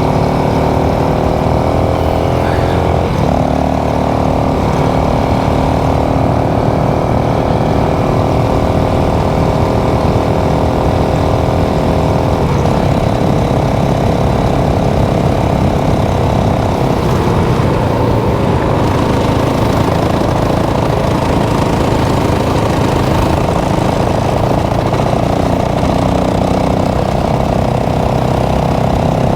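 Motorcycle engine running steadily under way, its pitch stepping with throttle or gear changes about three, twelve and seventeen seconds in.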